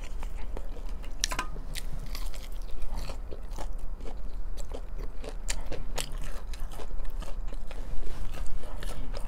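Close-up mouth sounds of chewing fried, breaded chicken strips: wet chewing with frequent sharp, irregular crunches of the crispy coating.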